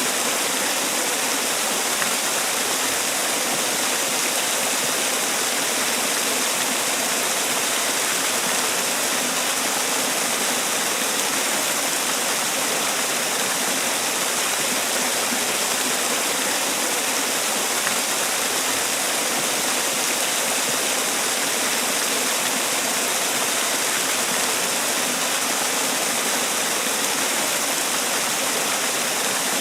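Man-made waterfall: water falling and splashing in a steady, even rush with a bright hiss, no breaks or distinct events.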